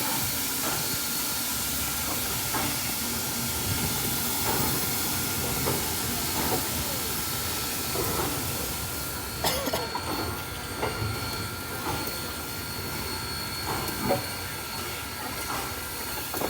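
Steam locomotive standing and hissing steam. The hiss cuts off sharply about two-thirds of the way through, with a click.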